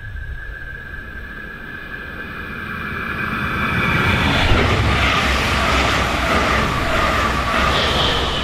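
Electric regional train, a red DB locomotive with double-deck coaches, coming up and passing close by on the rails. The rolling wheel-and-rail noise swells from about three seconds in and stays loud, with a high whine showing near the end as the locomotive goes past.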